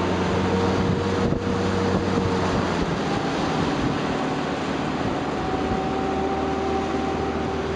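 RIB boat's outboard engine running steadily under way, with wind rushing over the microphone and water noise. The engine note shifts higher about three seconds in.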